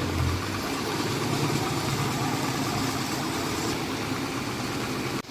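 A motor vehicle's engine running steadily as a low hum, under an even wash of noise.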